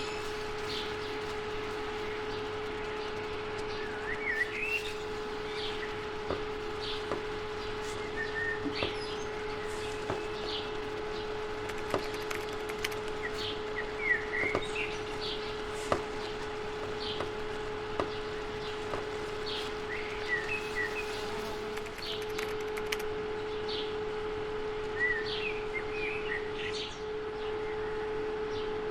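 Birds chirping on and off over a steady hum, with a few sharp clicks scattered through.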